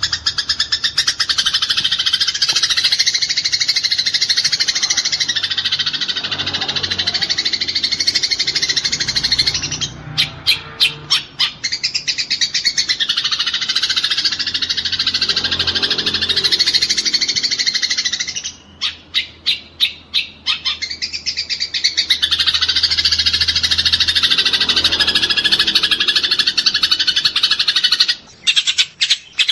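Eurasian tree sparrows chattering in a dense, rapid run of high chirps, the agitated calling of sparrows fighting. Three times, about ten seconds in, around nineteen to twenty-one seconds, and near the end, the chatter breaks into a quick series of separate chirps.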